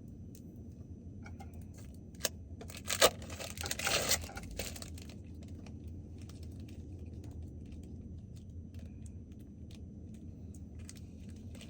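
Plastic food wrapping crinkling and rustling in a short burst a few seconds in, with a few sharp clicks just before, over a steady low hum.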